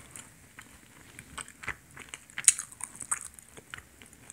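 A person chewing a bite of a warm glutinous-rice donut close to the microphone: scattered mouth clicks and chewing sounds, the loudest about two and a half seconds in.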